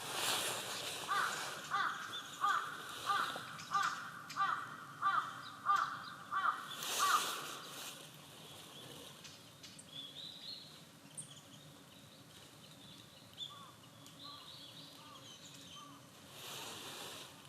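A crow cawing about ten times in a steady, evenly spaced series, which stops a little over halfway through. Faint, high, thin bird chirps follow.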